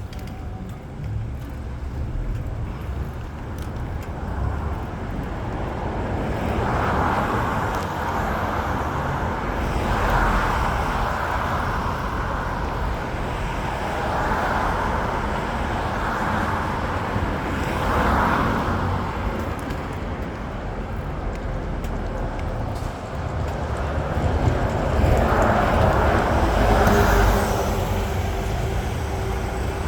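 City street traffic noise: vehicles passing, with the sound swelling and fading several times over a steady low rumble.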